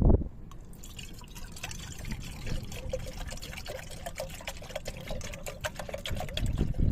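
Liquid being poured into a container, a trickle of many small splashes over a steady note, after a single thump at the start. A low rumble runs underneath.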